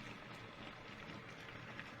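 Water running into a kitchen sink during hand dish-washing: a steady hiss with a few faint clinks.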